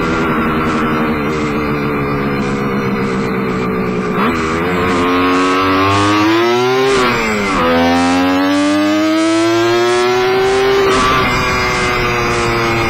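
Kawasaki KH500's air-cooled two-stroke triple revving up through the gears. Its pitch climbs from about four seconds in, drops at a gearshift about halfway through, climbs again, then eases off near the end.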